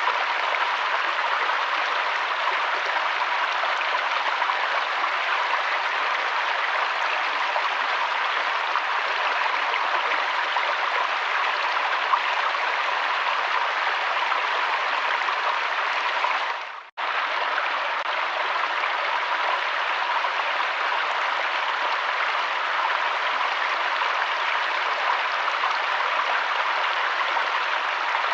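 River water flowing: a steady rushing. About two-thirds of the way through, it fades and drops out for a split second, then comes straight back.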